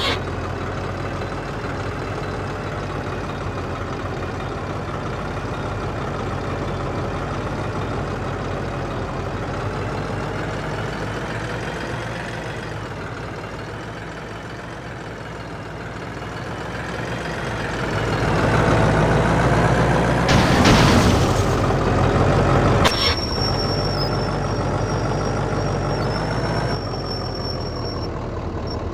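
Tractor diesel engines pulling hard against each other in a tug-of-war, a steady heavy drone that builds and is loudest about two-thirds of the way through. A thin high steady tone sounds for several seconds near the end.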